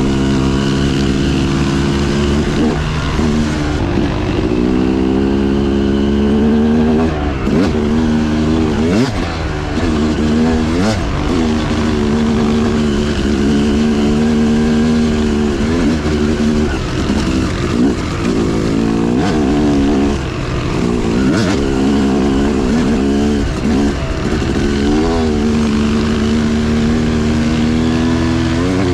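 Dirt bike engine revving up and down while riding, its pitch climbing and dropping again and again through throttle changes and gear shifts, over a steady low rumble.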